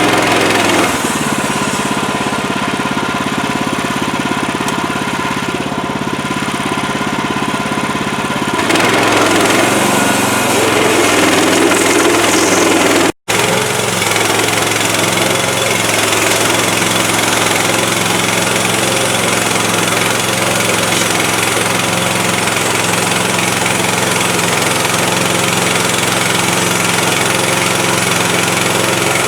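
Woodland Mills HM130MAX portable bandsaw sawmill's gas engine running steadily. Its sound changes about a third of the way in, and there is a split-second break near the middle.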